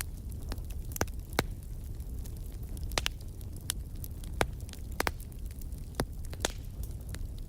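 Wood fire burning in a fireplace: a steady low rumble of flames with sharp crackles and pops at irregular intervals, about eight clear ones.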